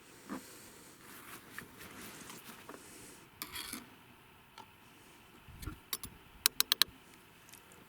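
Small handling sounds: rubbing and scraping, then a quick run of sharp clicks near the end.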